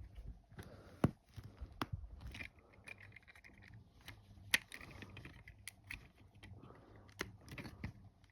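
Lego bricks clicking and tapping as plastic pieces are handled and pressed together: a handful of sharp, irregularly spaced clicks with faint ticking and rustling between.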